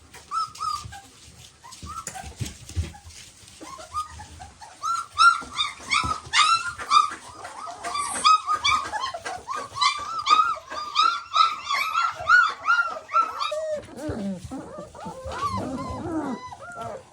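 Three-week-old German Shepherd puppies crying: a run of short, high calls that rise and fall, many each second, from about five seconds in, giving way to lower, longer whines near the end.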